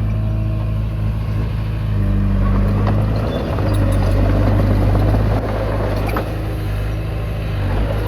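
Komatsu D20P bulldozer's diesel engine running steadily under load, with a few short clanks from the tracks or blade.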